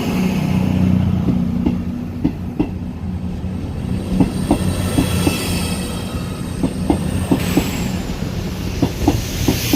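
Two coupled Class 221 Super Voyager diesel-electric trains moving past, their diesel engines running and the wheels clicking irregularly over rail joints. A thin high squeal sounds in the middle.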